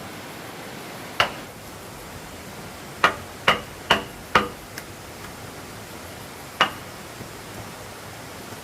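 Hammering on wood: six sharp knocks, four of them in a quick run about half a second apart in the middle, over a steady hiss.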